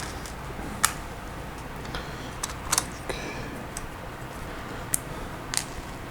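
Lego Technic plastic parts clicking as they are pulled apart and set down: a handful of sharp clicks at irregular intervals, the loudest about a second in.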